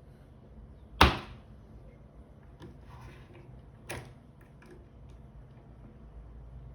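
Sharp clicks and taps of small hard parts being worked on a G-Shock watch and its band: one loud snap about a second in, a weaker one near four seconds, and a few faint ticks between them.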